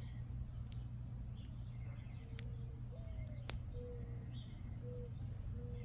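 Campfire crackling, with scattered sharp pops and one louder crack about midway, over a steady low rumble. A bird gives five short, low single notes in the second half, with faint higher chirps around it.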